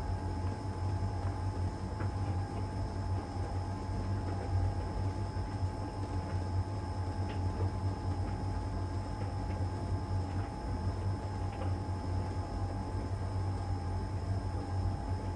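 LG heat pump tumble dryer running steadily in its drying stage: a low hum with a constant whine over it, and faint scattered ticks.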